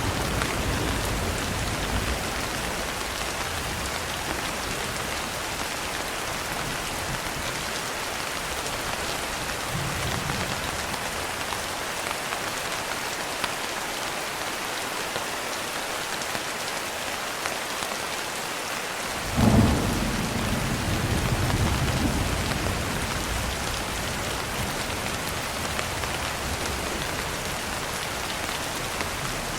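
Steady heavy rain with thunder: a low rumble dying away at the start, a faint one about a third of the way in, then a sudden loud thunderclap about two-thirds in that rolls on for several seconds.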